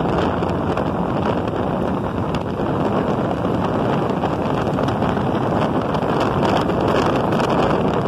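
Steady wind rushing over a phone microphone mounted on a motorcycle riding at speed, with the bike's engine and road noise blended underneath.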